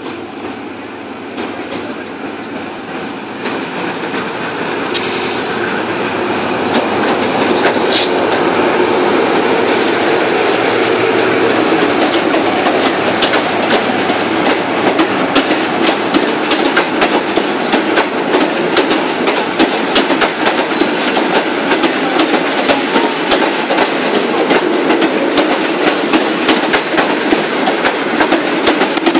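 A GE diesel-electric locomotive hauling a passenger express into a station. The sound grows louder over the first several seconds as the train approaches, then the engine and the coaches roll past with a rapid clatter of wheels over the rail joints.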